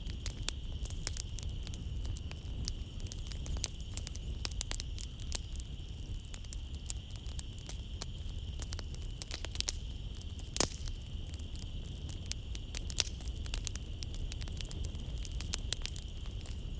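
Wood fire crackling in a fireplace: a dense, irregular run of small pops and snaps over a low rumble, with one sharper pop about ten and a half seconds in. A steady high-pitched chirring of night insects runs underneath.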